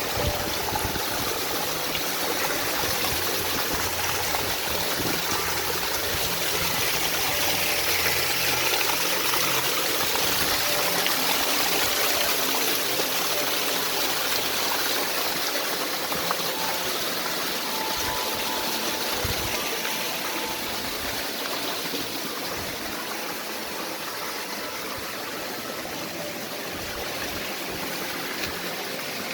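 Stream water rushing over rocks, a steady noise that grows louder in the middle and eases off toward the end.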